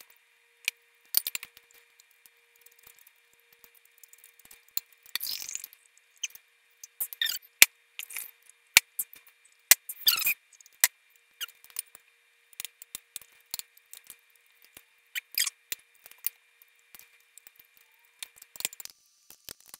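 Close-up mouth sounds of eating: a string of sharp wet clicks and smacks while chewing, with a few longer squelchy sounds about five, seven and ten seconds in.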